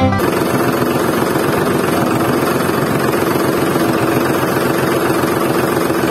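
Small petrol engine running steadily at an even, fast firing rate, starting abruptly as the music cuts off.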